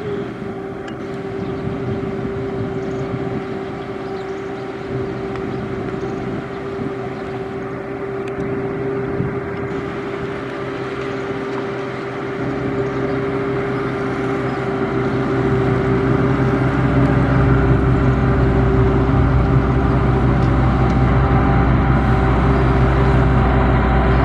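Heavy construction machine's diesel engine running steadily with a constant tone; a deeper engine rumble grows louder from about halfway through.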